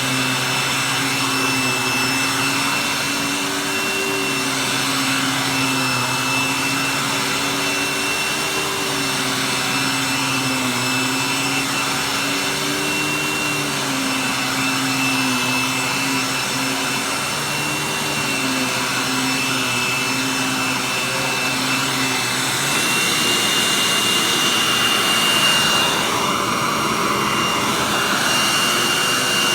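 Hoover vacuum cleaner running with a steady high motor whine over a wavering lower hum. About three-quarters of the way through, the lower hum drops out and the whine rises slightly in pitch and gets a little louder.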